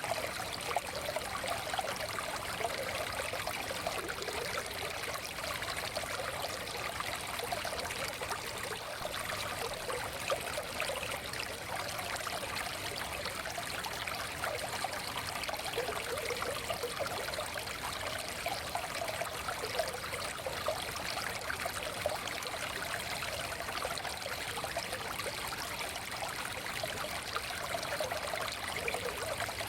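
Forest stream flowing steadily over stones, a continuous babble and trickle of water.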